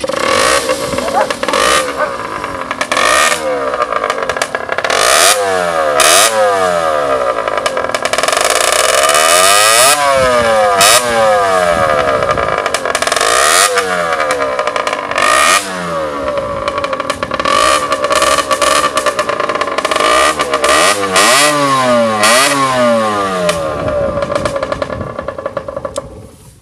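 Aprilia RS 50's two-stroke single-cylinder engine running with no exhaust fitted, revved up and down over and over with sharp pops between the revs. It is held high for a couple of seconds about eight seconds in and dies down near the end.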